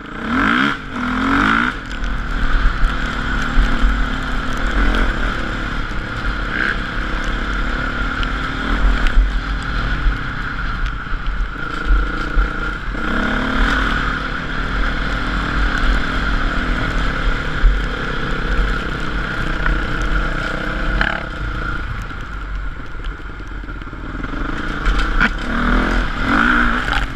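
Dirt bike engine running as it is ridden, its pitch rising and falling with the throttle, with short revs about a second in, around halfway through and near the end.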